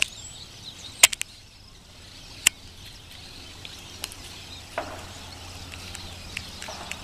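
Several sharp cracks: a quick cluster of three about a second in, a single one a second and a half later, and fainter ones after, over faint bird chirps and a low steady hum.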